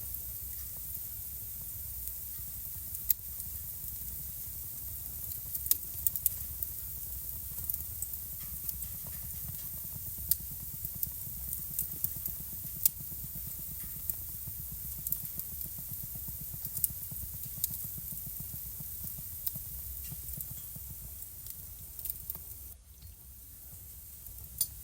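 Wood fire crackling in a fireplace: irregular sharp pops and snaps over a steady low rumble and a faint hiss. The sound dips briefly about 23 seconds in.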